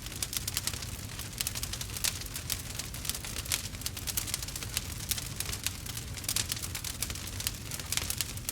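Burning wood fire crackling and popping steadily, with dense irregular sharp snaps over a low rumble of the flames.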